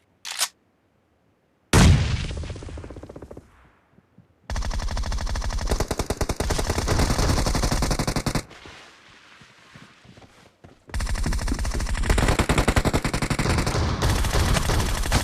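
Video game gunfire: a single loud blast about two seconds in that fades away, then two long stretches of rapid automatic fire with a short pause between them.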